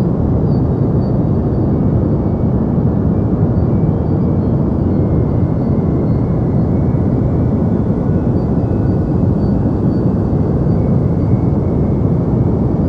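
Steady deep white noise: an even, low rushing sound with most of its weight in the bass and little high hiss, unchanging in level.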